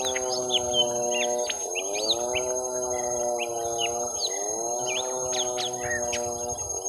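Young lesser green leafbirds (cucak ijo mini) giving fighting calls: a rapid, busy run of short chirps and quick rising and falling whistles. Beneath them runs a steady low droning tone that sags in pitch and recovers about every two and a half seconds.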